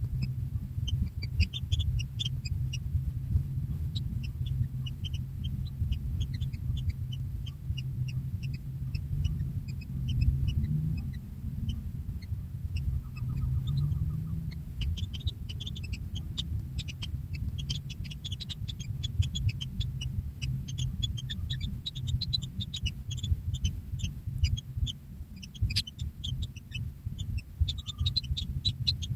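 Newly hatched kingfisher chicks giving many short, high squeaks and chirps, which grow busier from about halfway through, over a constant low rumble.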